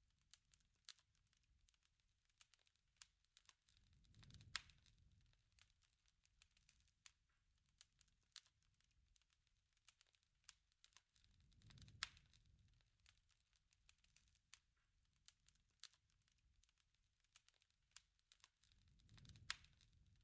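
Wood fire crackling and popping faintly, with irregular small snaps throughout. Three times, about seven seconds apart, a low rumble swells up and peaks in a sharper, louder pop.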